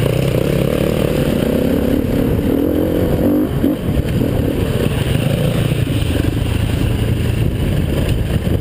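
Single-cylinder four-stroke 350 cc enduro motorcycle engine running hard under load on a dirt track, the revs rising and falling with the throttle, with a brief drop in engine sound about three and a half seconds in near the top of a hill climb.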